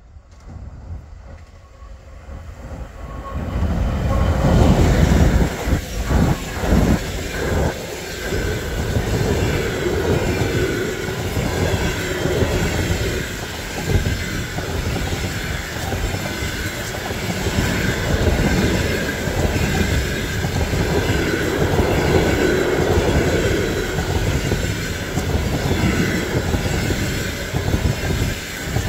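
A 3M62U diesel locomotive approaching and passing at speed, loudest about four to seven seconds in, followed by a long train of passenger coaches rolling by with a steady roar of wheels on rail. The wheels clatter over rail joints, with a faint high steady whine over the top.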